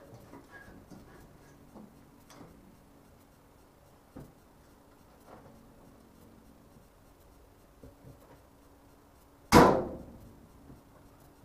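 Small scattered clicks and knocks, then one loud, sharp bang about nine and a half seconds in that dies away within half a second.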